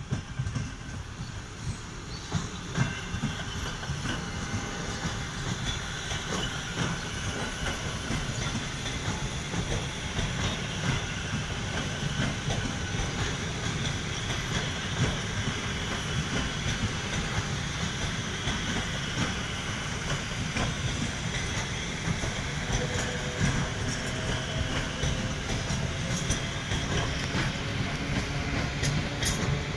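Electric-multiple-unit passenger carriages rolling slowly past on the rails: a steady rumble with wheels clicking over the rail joints, building up over the first couple of seconds, with a faint wheel squeal in the second half.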